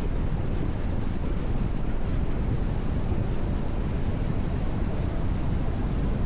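Steady road noise of a car cruising at expressway speed on rain-wet pavement: tyre hiss and wind rushing, unchanging throughout.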